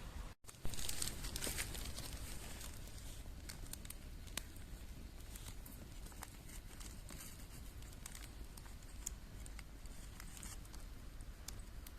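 Scattered small crackles and pops from cooking over a wood campfire, with a faint low rumble underneath.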